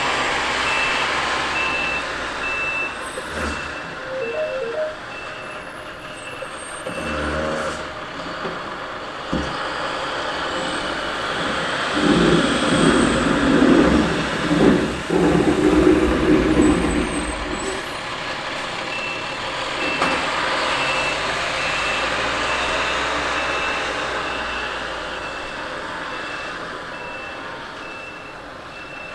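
International dual-axle plow dump truck running, its reversing alarm beeping steadily at the start and again over the last third as it backs up. In the middle the truck's engine grows louder for several seconds.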